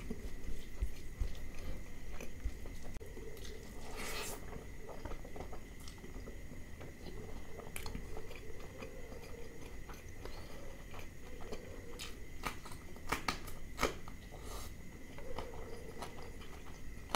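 Close-up chewing and mouth sounds of a man eating mutton liver curry and rice by hand, with scattered short crunches and clicks and a cluster of them near the end.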